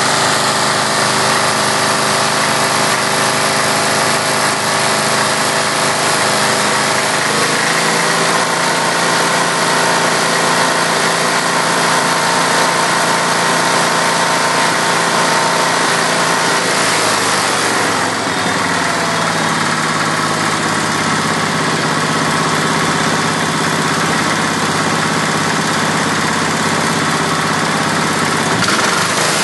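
Recently rebuilt Kohler K321 single-cylinder engine running with a rattle, its speed shifting about midway. The owner reports that it also misfires occasionally.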